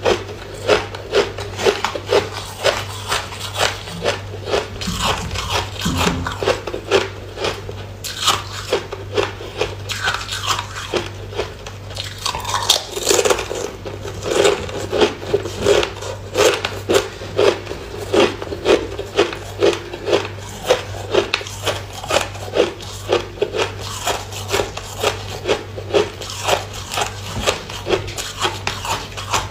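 Close-up crunching and chewing of hard food pieces, with regular crunches about two a second over a steady low hum.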